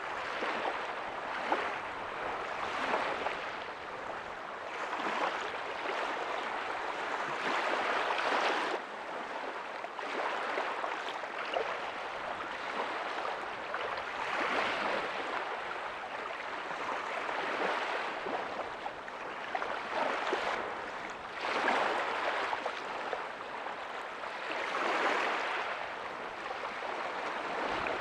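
Ocean waves breaking softly on a beach: a continuous wash of surf that swells and recedes every few seconds as each wave comes in.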